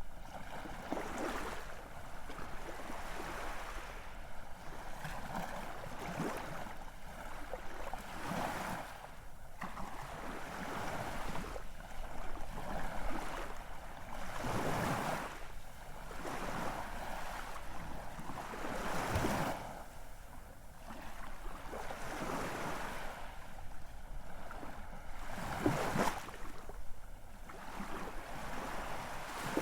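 Ocean waves washing ashore in slow, uneven swells, with heavier breakers surging about halfway through, a few seconds later, and again near the end.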